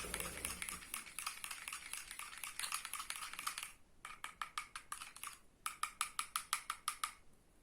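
A spoon stirring Cerelac baby cereal and warm water into a thin feeding mix in a small container, with quick light clinks against the sides about seven a second. The stirring runs for almost four seconds, then comes in two shorter spells with brief pauses between them.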